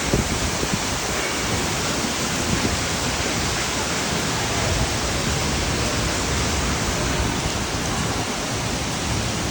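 Heavy tropical rain shower pouring down in a steady, dense hiss.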